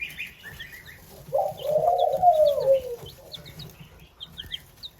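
Young bantam chicks peeping: many short, high, falling peeps, thickest in the second half. About a second and a half in there is one longer, lower call that rises and falls.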